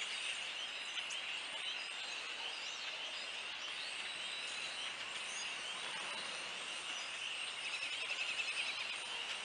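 Birds chirping and calling over a steady, high-pitched background drone, with a rapid trill standing out a little louder near the end.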